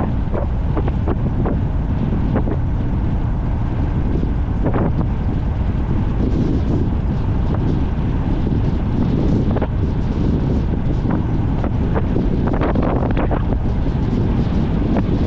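Strong wind buffeting the microphone as a gravity race car coasts downhill, with scattered irregular knocks and rattles from the cart.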